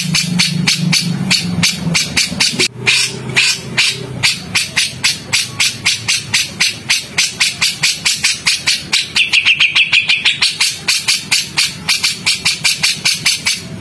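Songbird giving a harsh, rapid chattering call: a dry, sharp note repeated about six times a second without a break. About two-thirds of the way through, the notes come faster and take on a ringing tone.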